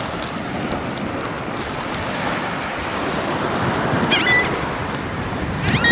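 Ocean surf washing on the beach with wind on the microphone, and two short bird calls, one about four seconds in and one near the end.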